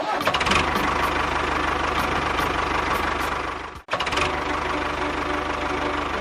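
Mini tractor's engine running steadily with a fast, even knock. It drops out for an instant just before four seconds in and picks up again.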